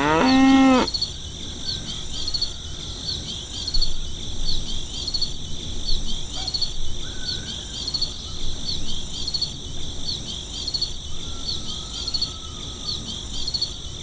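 A cow mooing once, ending about a second in, then a steady high drone of insects, likely crickets, with a chirp repeating a little under twice a second. A few faint bird calls come and go.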